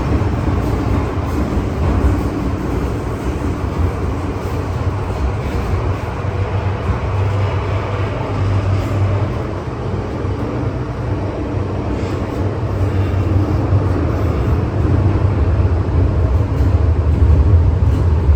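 MTR M-Train electric metro train running along the track, a steady low rumble with rail noise that grows louder over the last few seconds.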